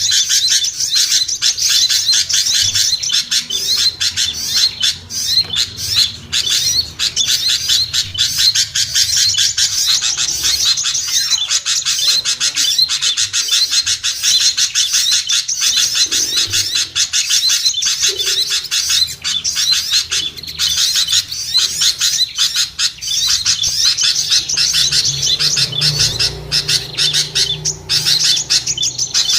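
Bird-lure recording of a busy mixed chorus of small songbirds: dense, rapid high chirps and chatter without a pause, a noisy calling meant to draw small birds down.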